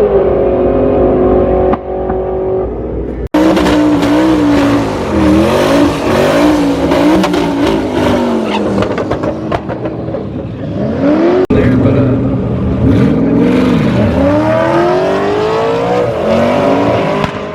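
Car engines at a drag strip accelerating hard, the engine note repeatedly rising and dropping as they rev and shift, with two abrupt cuts between clips.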